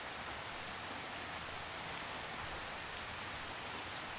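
Steady gentle rain falling, an even hiss of light drizzle with faint drop patter.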